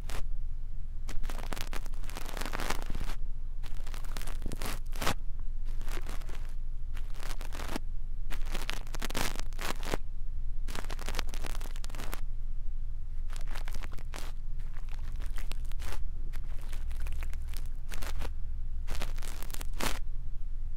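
Brush bristles scratching and sweeping over a microphone in irregular strokes, as in brush ear cleaning, over a steady low hum.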